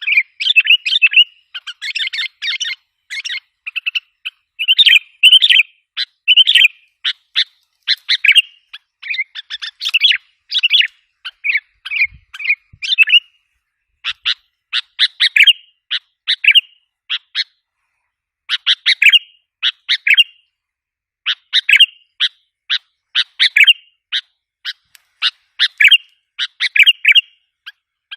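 Sooty-headed bulbul (kutilang) calls: rapid runs of short, sharp chirps in clusters, with brief pauses between them. This is a recorded lure call of the kind played to draw wild bulbuls in.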